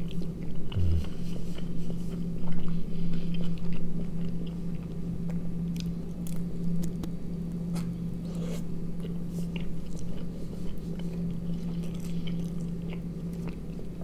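Close-up mouth sounds of a man chewing and biting a rolled flatbread snack filled with sausage and cheese: wet chewing with small crunches and smacks. A steady low hum runs underneath.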